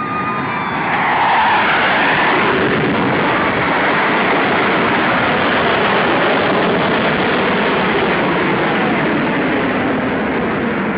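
Military jet flying low overhead: a loud, steady jet-engine roar that swells about a second in.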